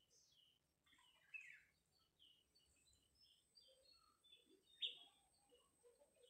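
Faint bird chirps: many short calls scattered throughout, with one sharper call about five seconds in.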